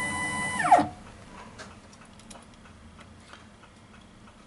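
Taig milling machine motor whining at a steady pitch, then spinning down with a quick falling whine as it stops a little under a second in. Faint small metallic clicks and taps of handwork follow.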